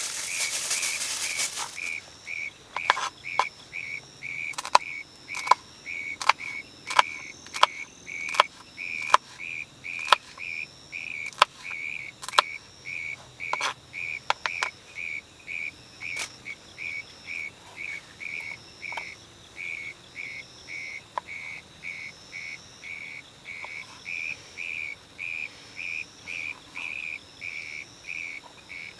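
An insect chirps steadily, a high-pitched pulse repeating about one and a half times a second, with scattered sharp clicks or taps over the first half. A loud hiss stops suddenly about two seconds in.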